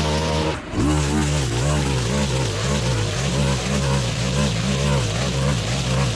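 Stihl FS 131 brushcutter's four-stroke 4-MIX engine running at high revs, its pitch dipping and recovering rhythmically as it cuts through thick grass. The sound drops out briefly about half a second in.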